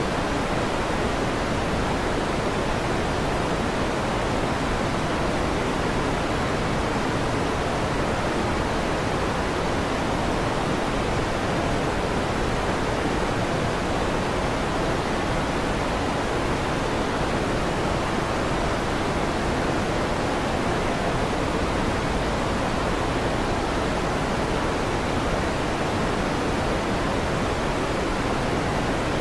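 Steady fan noise: an even, unbroken whooshing hiss weighted toward the low and middle range, with no thunder or other events.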